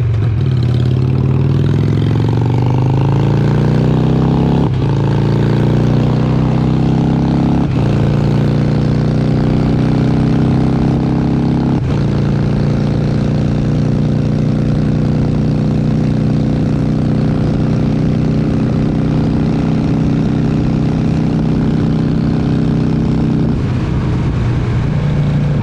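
Harley-Davidson Sportster 883's air-cooled V-twin accelerating hard through the gears: the engine note climbs, drops briefly at three upshifts in the first twelve seconds, then holds at a steady cruise.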